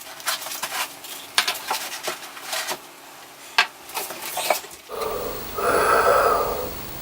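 Hard objects clinking and clattering in a string of sharp knocks, like dishes or cutlery being handled, becoming a denser, steadier clatter about five seconds in that cuts off suddenly.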